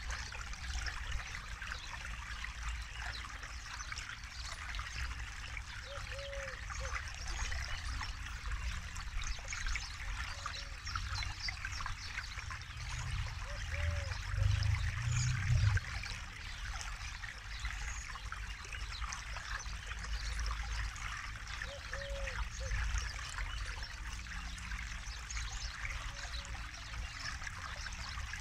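Forest river flowing, a steady rushing and trickling of water, with short low-pitched blips every few seconds and a deeper rumble that swells briefly about halfway.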